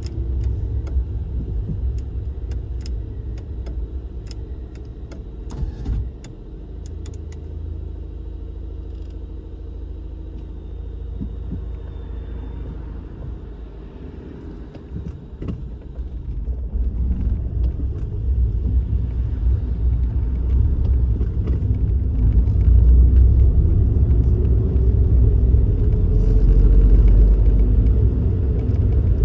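Kei car driving, heard from inside the cabin: a steady road and engine rumble that eases off about six seconds in and builds again from about sixteen seconds as the car picks up speed, with a rising engine note near the end.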